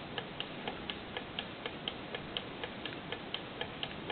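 Small 3D-printed diaphragm Stirling engine running on the heat of a cup of hot water, ticking lightly and evenly about four times a second as it turns over.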